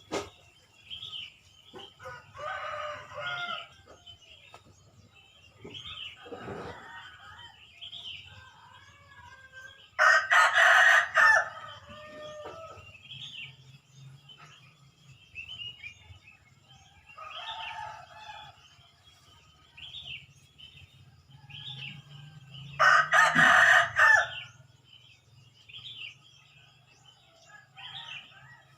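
Morning birds: a rooster crows loudly twice, about ten seconds in and again near the two-thirds mark, with fainter crowing or clucking between. Throughout, a small bird gives a short high chirp about once a second.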